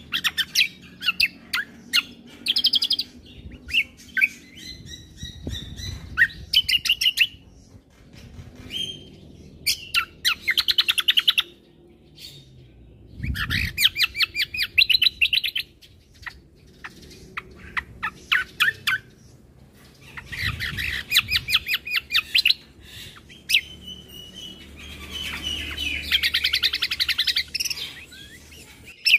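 Kecial kombo (cucak kombo) songbird singing: bursts of fast chattering trills and short whistled notes, each burst lasting a second or two, repeating with brief pauses.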